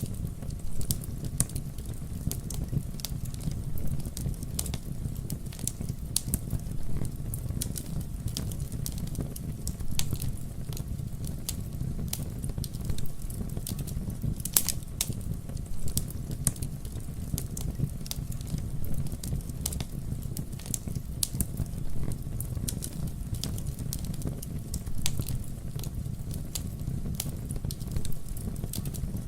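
Campfire burning with a steady low rumble and frequent sharp crackles and pops of burning wood, a few of them louder than the rest.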